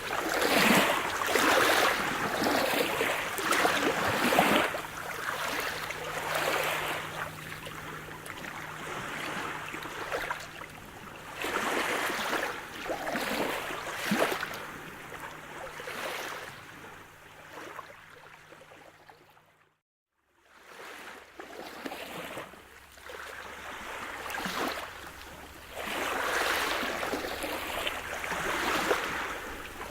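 Sea surf: waves washing in, swelling and fading every few seconds. About two-thirds of the way in, the sound cuts out briefly and picks up again, where recordings are joined.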